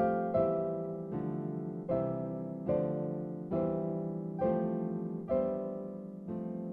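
Slow, gentle piano music. A chord is struck a little less than once a second, and each one rings and fades before the next.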